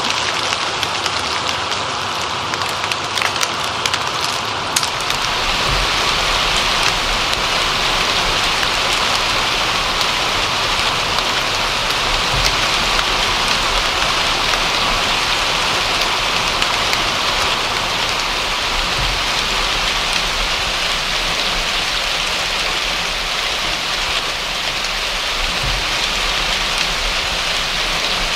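Steady rain falling, an even hiss of many drops. About five seconds in it turns fuller and heavier.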